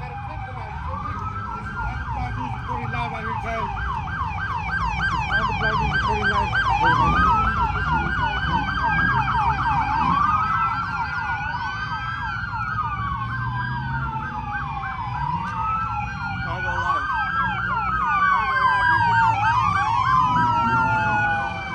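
Several police sirens sounding at once: a fast yelp of about four to five sweeps a second overlaps slower wails that rise and fall every two to three seconds, over a low rumble of traffic.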